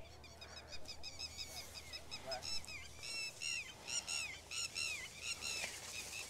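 Birds calling: a quick series of short, high chirps that grow louder from about three seconds in.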